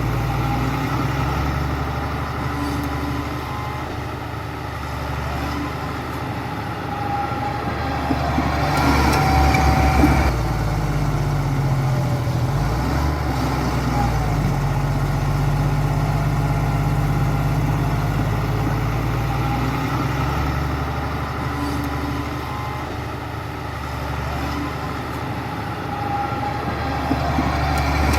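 Heavy diesel engine of a bulldozer running steadily. Its sound swells louder and rougher about a third of the way through, as if working under load, then settles back and rises again near the end.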